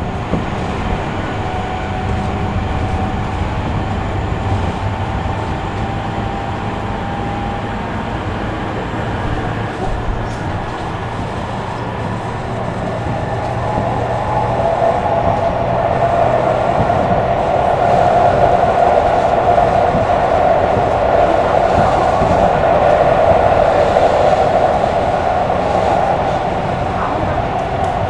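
Running sound of Tobu Railway electric train car 59009 in motion: a steady rumble of wheels on the rails with an electric traction-motor whine on top. The whine edges up in pitch early on, then swells and grows louder through the middle before easing near the end.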